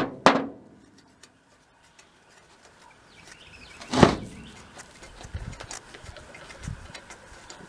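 A few sharp knocks and clicks: two right at the start, a louder single knock about four seconds in, then a few fainter ones.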